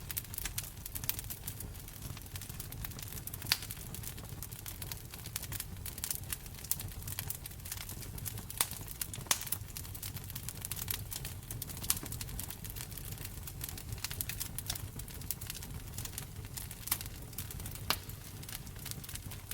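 Fireplace fire crackling: an irregular run of small snaps and pops, with a few sharper, louder pops now and then, over a low steady rumble.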